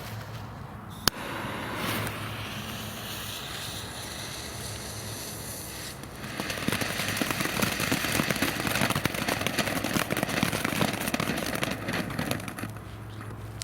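Small consumer firework fountain burning: a sharp pop about a second in, then a steady hiss that grows louder and crackles from about six seconds in, dying down near the end.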